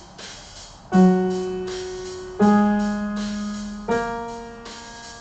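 Piano playing three single notes about a second and a half apart, each struck and left to ring, stepping up in pitch. It is a short ear-training pattern played for students to echo back.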